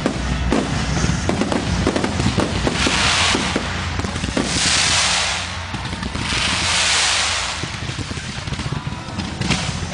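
Fireworks going off: a rapid string of sharp pops and bangs, then three long swells of crackling hiss from bursting shells around the middle.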